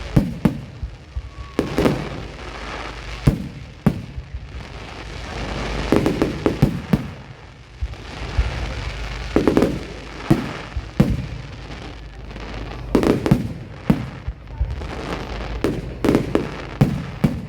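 Public fireworks display: aerial shells bursting in irregular succession, sharp bangs roughly every second or two, some in quick clusters, over a steady background rumble.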